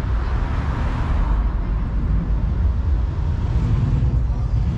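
Car engines running, a steady low rumble with street noise.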